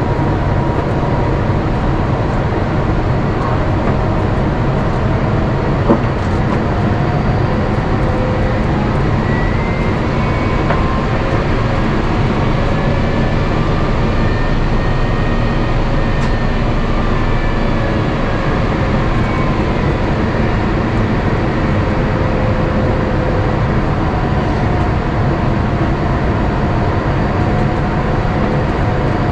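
Steady cabin noise inside an Airbus A350-900 in flight, the hum of the engines and the rush of air, with faint whining tones that slowly rise and fall in pitch. One small click comes about six seconds in.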